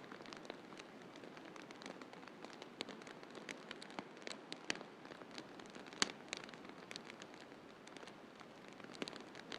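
Wood fire in a fireplace crackling, with irregular sharp pops and snaps over a steady soft hiss. The loudest pop comes about six seconds in.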